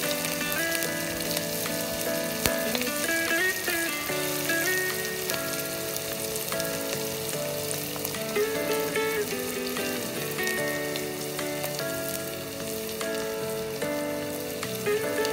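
Chopped onion and cumin frying in mustard oil in an aluminium pot, a steady sizzle. Faint background music of held, shifting notes plays alongside.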